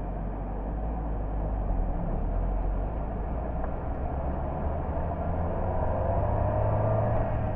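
A car on the move: steady engine and tyre-on-road rumble, slowly getting a little louder over the seconds.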